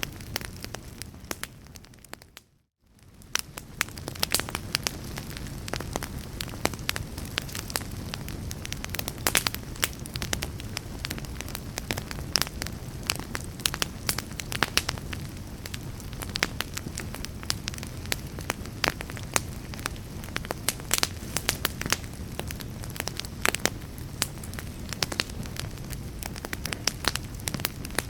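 Fireplace fire crackling, with many sharp pops over a low steady rumble. About two and a half seconds in, the sound fades almost to silence for a moment, then fades back in.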